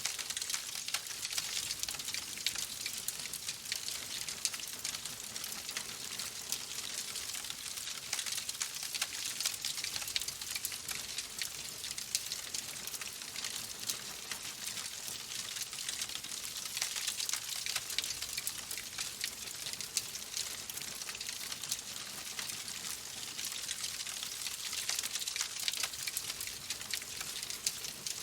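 Fireplace fire crackling steadily, a dense run of small pops and snaps.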